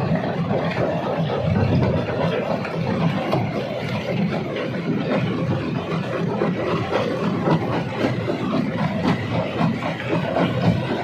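Jaw rock crusher running under load, a steady heavy rumble with a dense rattle of rock being crushed.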